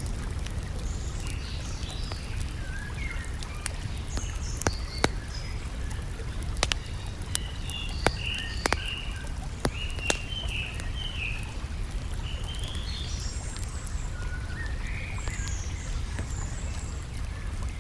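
Songbirds chirping and calling over a steady low wash of lake water, with a few sharp campfire pops in the middle.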